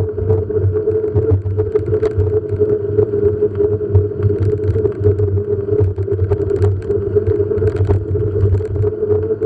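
A motor running steadily, a constant droning hum with faint scattered rattles and clicks, as from a vehicle travelling along at an even pace.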